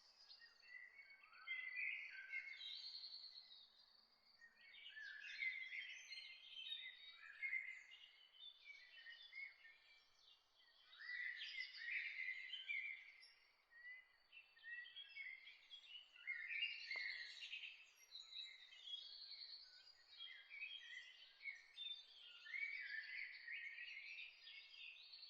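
Several songbirds singing and chirping in repeated short phrases over a faint steady background hiss, with a single faint click about two-thirds of the way through.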